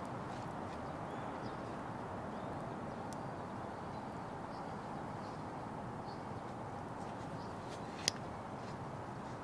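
Firewood burning in a Petromax Atago fire pit: a steady noise of the flames with scattered small crackles and one sharp pop about eight seconds in.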